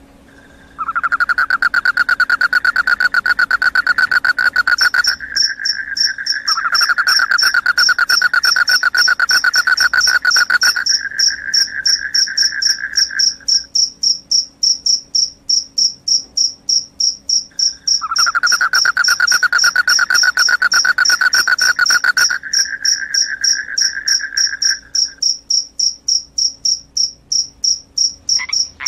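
Crickets chirping in fast, pulsed trills. A lower trill comes in long bouts of several seconds with short gaps, and a higher, steady trill joins about five seconds in and keeps going.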